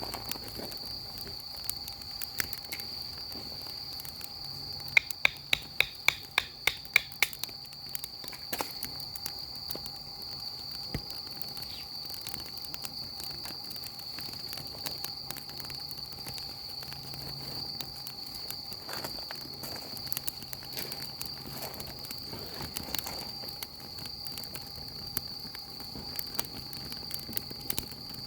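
Wood fire crackling with scattered sharp pops, including a quick run of about ten loud cracks a few seconds in, over a steady high-pitched insect trill.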